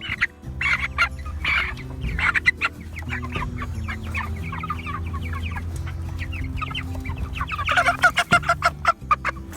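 Flock of Cornish Cross broiler chickens clucking and calling, a busier, louder bout of calls about eight seconds in.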